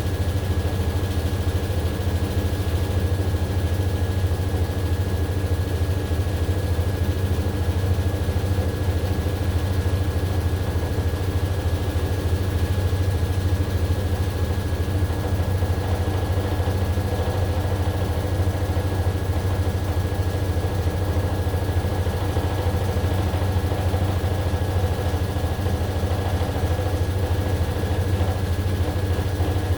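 AQUA AQW-DX12M front-loading drum washing machine running, a steady low motor hum with a thin high whine held at one pitch.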